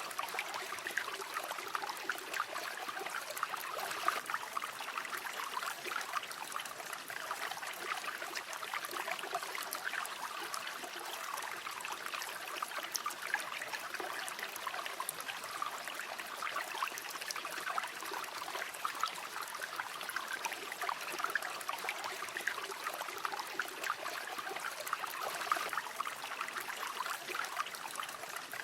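A shallow river or stream flowing, a steady babbling and trickling of water over stones with no breaks or changes.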